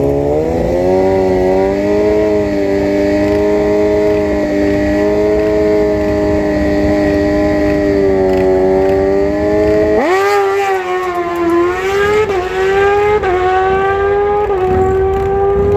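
Inline-four sport bike engine held at steady high revs, then about ten seconds in accelerating away, its pitch climbing through several quick gear shifts.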